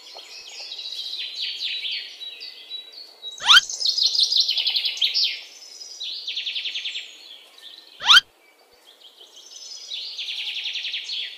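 Birds chirping and singing in fast trills and short repeated notes. A quick rising sweep cuts through about three and a half seconds in and again about eight seconds in.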